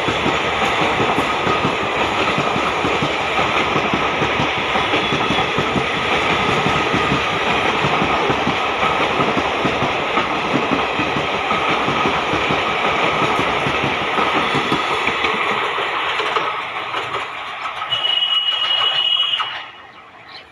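Electric-locomotive-hauled express train passing through at speed, its coaches rattling and wheels clattering over the rails in a loud steady rush. Near the end the noise eases and swells briefly with a short high-pitched tone, then falls away sharply as the last coach goes by.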